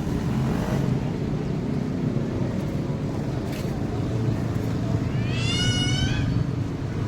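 A child's short, high-pitched squeal about five seconds in, rising and then falling slightly, over a steady low background rumble.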